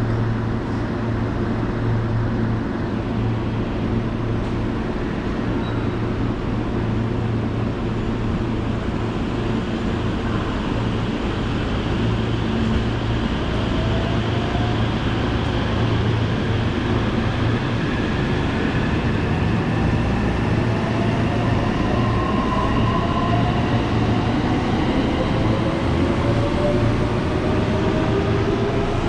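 Electric commuter train at a station platform: a steady low rumble, with the motors' whine rising slowly in pitch from about halfway through as the train gathers speed.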